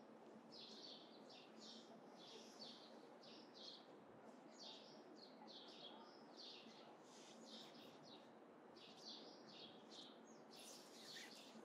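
Small birds chirping, faint, many short high chirps in quick irregular runs over a soft steady background hiss.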